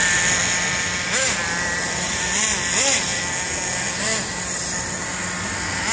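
Vortex SS radio-controlled truck's motor running with a steady whine, its pitch rising and falling briefly about once a second as the throttle is worked.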